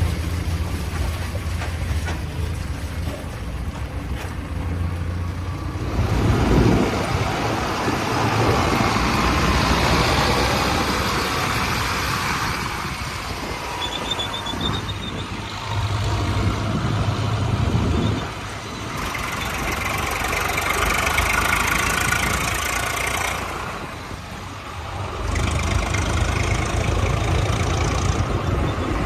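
Tractor engine running, its steady low note joined after about six seconds by louder, rougher noise that rises and falls several times.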